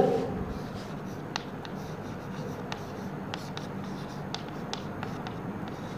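Chalk writing on a blackboard: light scratching and a scatter of short sharp taps as a word is written, over a faint steady low hum.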